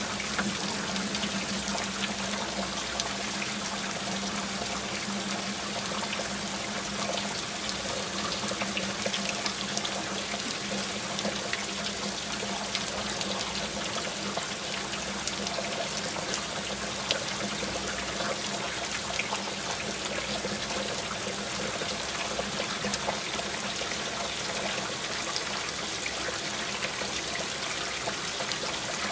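Steady rain with a dense patter of small drops and water trickling and running.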